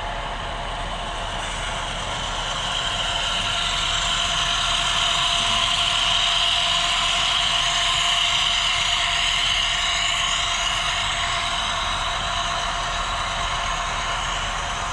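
HO scale model train running past on the layout track, its sound swelling to a peak midway and then fading as it moves away.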